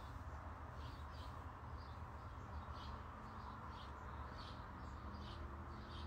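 Faint steady background rumble with small birds giving short, quiet chirps every second or so.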